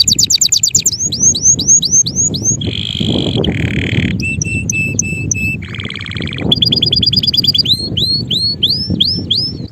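Male canary singing a fast, varied song: rapid trills of repeated notes, runs of upward-sweeping whistles at about four a second, and a short buzzy rattle just past halfway, over a steady low rumble.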